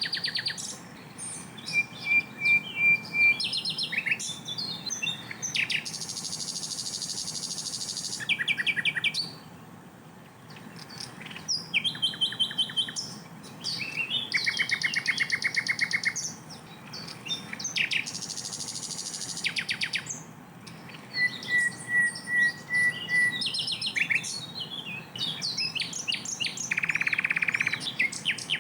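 Sikatan londo singing a loud, rapid song: fast runs of repeated notes, trills, high buzzy notes and short whistled series, delivered in quick varied phrases with brief pauses between them.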